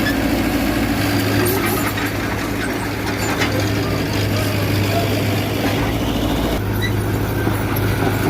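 Diesel engine of a Mitsubishi BD2G bulldozer running steadily while working, with a few short metallic clicks and clanks; the engine note shifts about two thirds of the way in.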